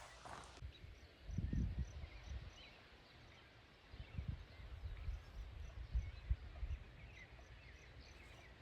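Faint scattered bird chirps over several low rumbling thumps on the microphone, the strongest a little over a second in.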